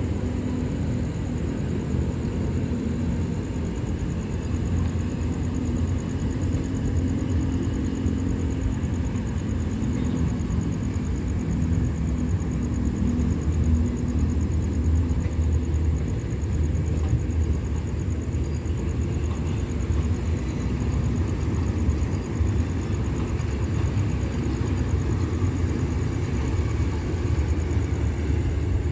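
Passenger train coaches rolling slowly past: a steady low rumble with no distinct wheel clicks.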